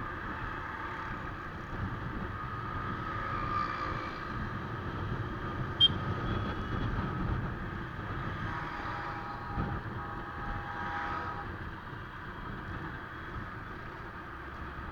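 Motorcycle riding along a highway: a steady rumble of engine, tyre and wind noise. A held pitched tone sounds for about three seconds past the middle, and a single sharp click about six seconds in is the loudest moment.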